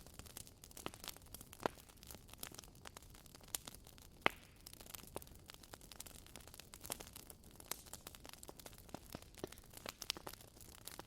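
Wood bonfire crackling, with irregular sharp pops and snaps over a faint hiss; the loudest snap comes about four seconds in.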